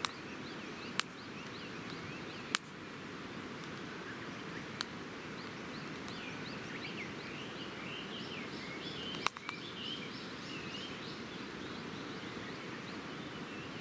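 Wood campfire crackling, with a handful of sharp pops spread out over a steady hiss. Birds chirp in a run of short calls in the middle of the stretch.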